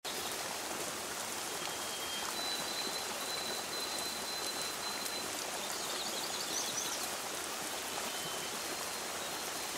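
Steady rain falling, an even hiss of raindrops. Faint thin high tones and a brief high chirping run through it in the middle.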